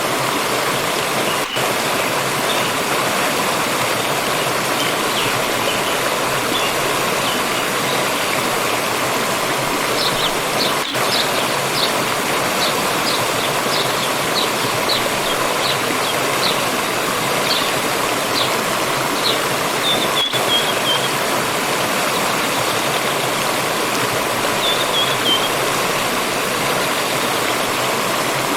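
Steady rushing of a forest stream, with small birds chirping over it. A run of quick, short chirps starts about ten seconds in, and brief falling trills come twice later on.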